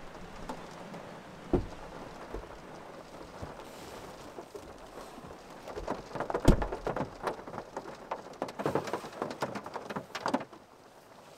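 Raindrops pattering on a car's roof and windshield, heard from inside the cabin. The scattered taps grow dense about six seconds in and stop abruptly near the end.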